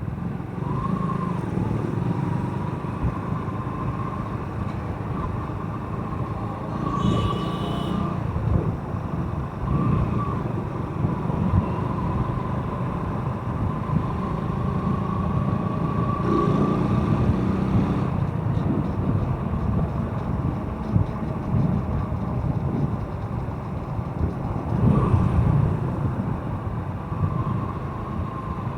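A motorcycle running along a road, with a continuous low engine and road rumble and a steady whine. Other traffic passes briefly a few times.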